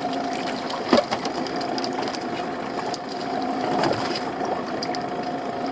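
Small fishing boat's machinery running with a steady whine and a fine ticking rattle, with a single sharp knock about a second in.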